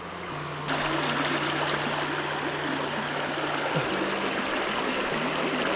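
Mountain creek water rushing and splashing over rocks, a steady rush that gets suddenly louder less than a second in. A faint steady low hum runs underneath.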